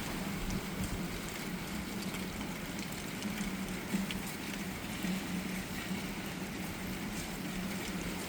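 Steady storm wind blowing, with faint ticks of rain and a low steady hum underneath.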